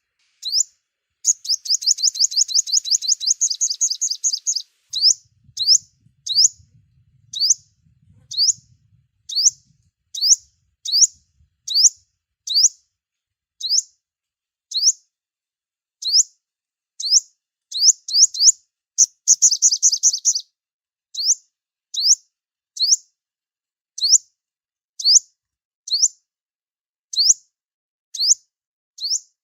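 Sunbird calling: a sharp, high chip note repeated about once a second, broken twice by a rapid high trill, the first lasting about three and a half seconds and the second about a second and a half.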